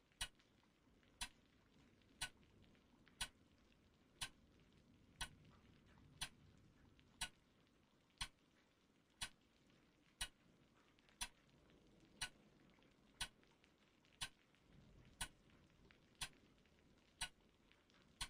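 A clock ticking steadily, about once a second, over a faint low rumble.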